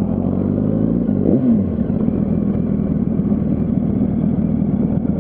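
Yamaha R1's inline-four engine running at low speed in traffic, with one short rev that rises and falls about a second in.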